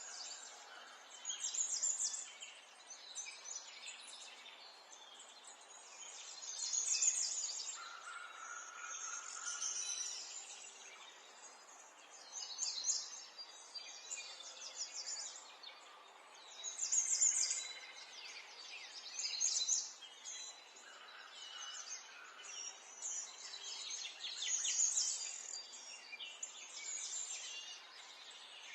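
Small songbirds chirping and singing in rapid high bursts every second or two, with a few lower whistled notes, over a faint steady background hiss.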